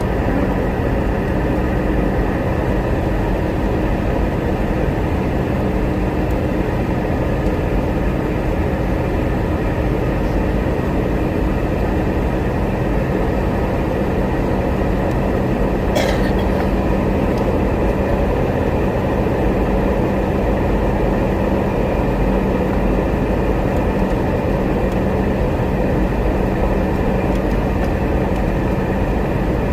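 Steady cabin noise of a Boeing 717 in flight: the drone of its rear-mounted Rolls-Royce BR715 turbofans and the rush of airflow, with a steady hum throughout. A single sharp click about halfway through.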